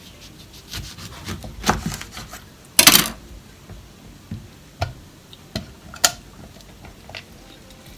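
Household handling noises: a string of short knocks and clicks, with a louder scraping rub lasting about half a second near three seconds in.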